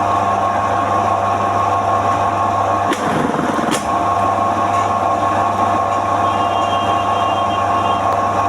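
A machine's electric motor running with a steady hum, and two short clicks a little after three seconds in.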